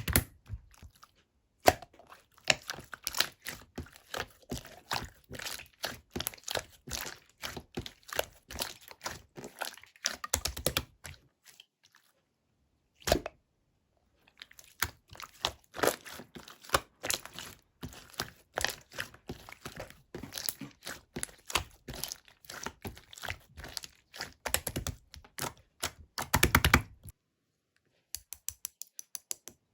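Slime being kneaded and squeezed by hand: dense runs of small sticky clicks and pops, broken by short pauses about twelve seconds in and again near the end.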